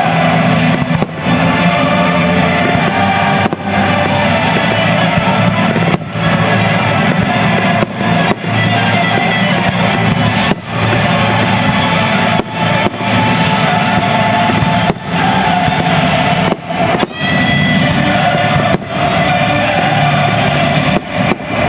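Fireworks shells bursting at a display, over loud continuous music.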